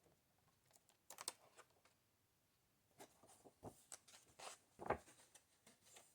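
Pages of a book being turned by hand: faint paper rustles and light taps, a few at a time, the loudest just before the end.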